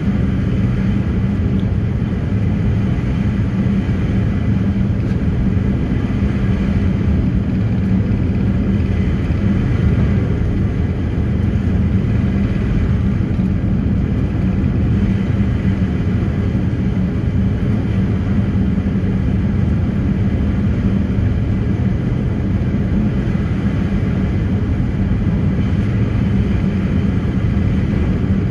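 A passenger ferry's engines running at steady cruising speed: a loud, unchanging low drone with a steady hum.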